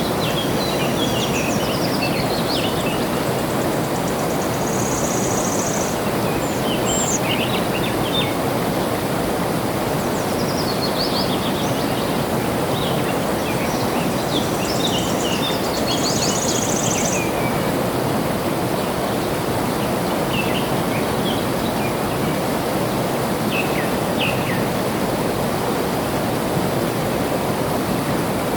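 Steady rush of flowing water, with songbirds chirping over it in scattered clusters of short calls. A short, high buzzing trill comes twice, about five and sixteen seconds in.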